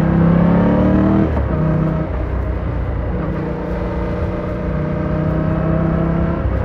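Yamaha R7's 689 cc parallel-twin engine pulling under acceleration. Its pitch rises for about a second, drops sharply at a gear change, then holds steady and climbs slowly as the bike cruises on.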